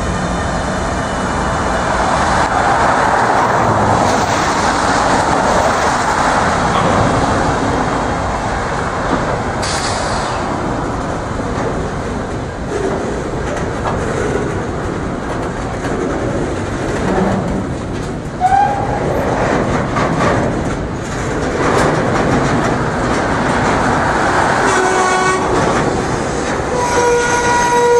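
Empty ballast hopper cars of a freight train rolling past close by at speed, a steady rumble with clattering wheels on the rail joints. A high, steady tone with overtones joins near the end.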